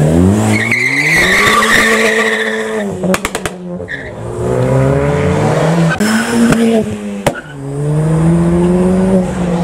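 Ford Fiesta ST accelerating hard through the gears. The engine note climbs, drops at gear changes about three and six seconds in, and climbs again each time. Tyres squeal in the first few seconds, and a few sharp crackles come at the first change.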